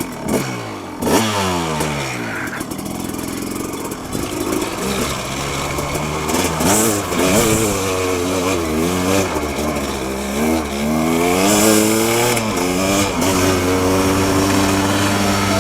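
Dirt bike engines running, revving up and down as they ride, the pitch repeatedly climbing and dropping with throttle and gear changes.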